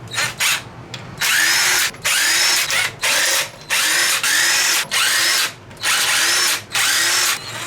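Power drill or driver run in about seven short trigger bursts, its motor whine rising and falling in pitch each time, as fasteners are run out during the teardown of the engine.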